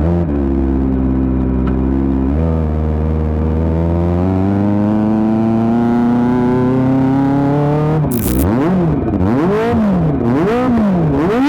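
Kawasaki ZX-25R's 250 cc inline-four running through an Akrapovic GP titanium exhaust. It holds a steady speed for about two seconds, then the revs climb slowly for several seconds. From about eight seconds in, a short crack is followed by a series of quick throttle blips, the revs shooting up and falling back about once a second.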